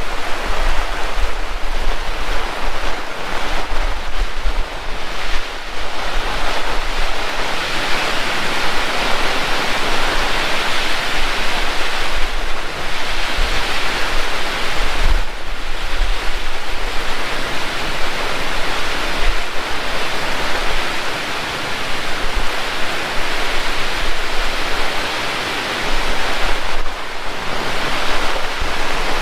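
Heavy rain pouring steadily, easing briefly a few times, with a low rumble of wind on the microphone.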